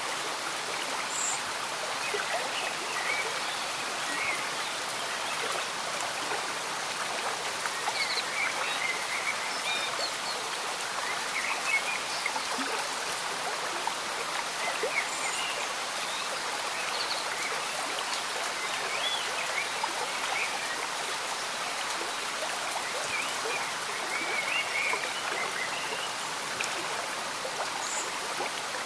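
A slow stream bubbling, with gentle rain pattering steadily and a scattering of small, short high calls throughout.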